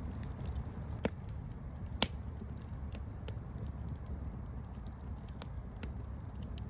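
Wood campfire crackling over a low steady rumble, with scattered small snaps and two louder pops about one and two seconds in.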